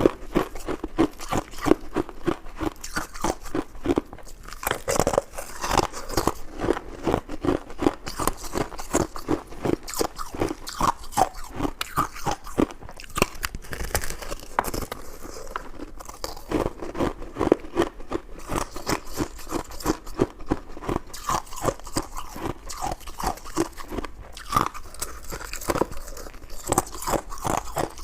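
Close-miked eating sounds: a person chewing a chewy dessert, a dense run of mouth clicks and smacks, several a second, without a break.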